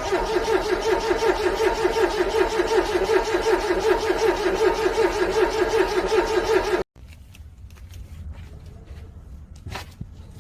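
Car engine cranking on its starter motor in freezing cold without catching: a fast, even pulsing churn that cuts off suddenly about seven seconds in. Then a faint click near the end.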